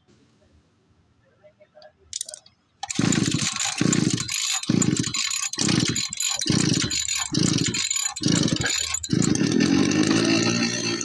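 An engine being cranked, with slow rhythmic chugs about one and a half a second, then catching and running steadily about nine seconds in.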